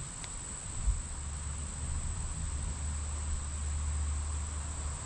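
Insects, crickets by their sound, chirring in one steady high trill in a summer garden. A low rumble joins about a second in, after a brief bump.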